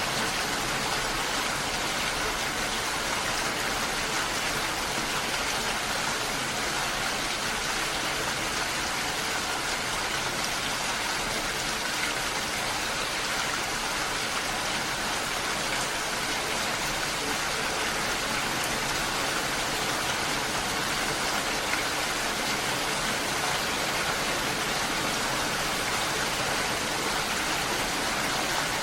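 Steady, unbroken rushing of water, an even hiss that holds the same level throughout.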